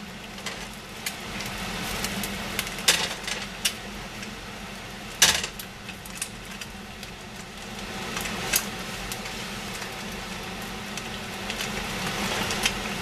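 Frying pan sizzling steadily, with several sharp knocks and clicks of kitchen utensils, the loudest about five seconds in, and the sizzle growing louder in the last few seconds.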